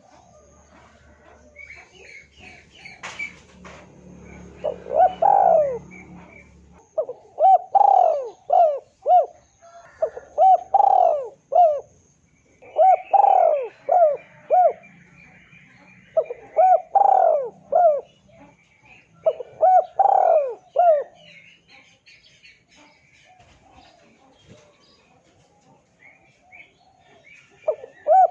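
Spotted doves (tekukur) cooing: about six phrases of several hooting coos each, a few seconds apart, then a quieter stretch near the end. Faint chirps of smaller birds sound behind them.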